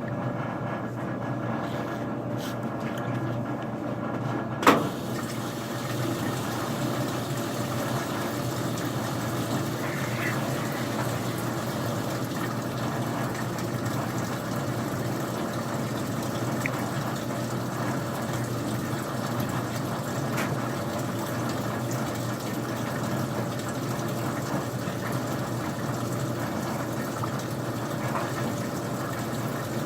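Old-style front-loading washing machine running with its top off: a sharp click about five seconds in, then a steady hiss of water filling over a low hum.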